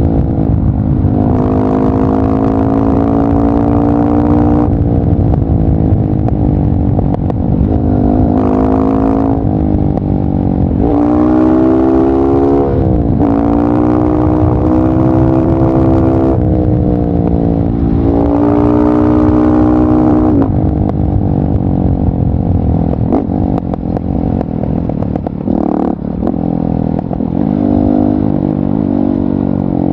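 KTM 690 SMC R single-cylinder engine through a LeoVince exhaust, pulling hard through the gears: its pitch climbs and then drops sharply at each upshift, several times over the first twenty seconds. After that it runs lower and less evenly, off the throttle, with scattered crackles from the exhaust.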